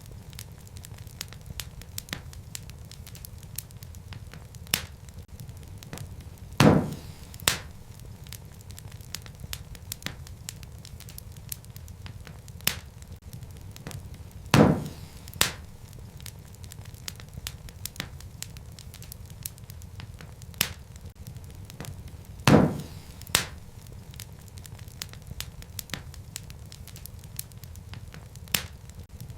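Wood fire crackling over a low, steady rumble, with many faint ticks. A loud sharp pop, followed by a smaller one, comes about every eight seconds.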